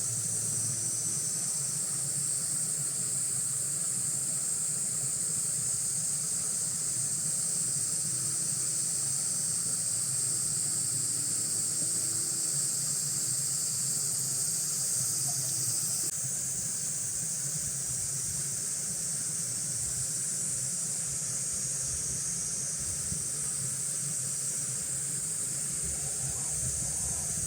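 Cicadas droning in a steady, high-pitched summer chorus, with a slight shift in the sound about sixteen seconds in.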